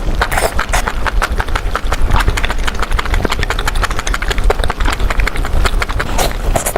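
Close-miked eating of dinengdeng, a vegetable soup: rapid, irregular clicking and smacking of chewing, over a steady low rumble.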